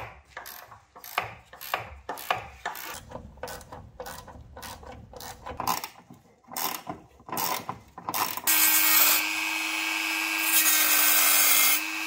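Hand ratchet wrench clicking in short back-and-forth strokes as fasteners are undone. About eight seconds in, a small power tool starts and runs steadily with a loud hiss and a steady whine.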